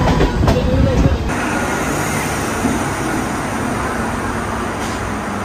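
Low rumble and wind noise of a Mumbai suburban local train rolling into a station, heard from its open doorway; about a second in it cuts to the steady din of a station platform with a local train standing.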